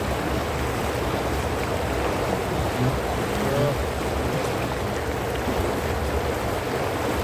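Tour boat under way on a canal: its motor runs steadily under the rush of water along the hull.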